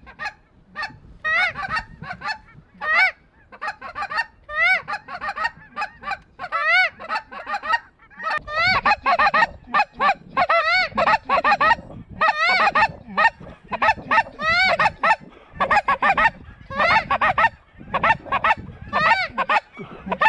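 Specklebelly (greater white-fronted goose) calling: a loud, rapid run of short, high yelps that rise and fall in pitch, several a second. They crowd together and overlap more from about eight seconds in.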